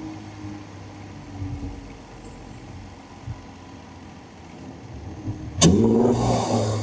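Tuned Infiniti Q60's engine running low and steady, then near the end the throttle opens with a sudden loud onset and the engine pulls with rising pitch under hard acceleration, with intake noise above it.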